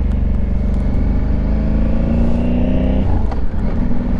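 Honda Africa Twin Adventure Sports' parallel-twin engine running steadily under way, with road and wind noise. Its note changes about three seconds in, with a brief click.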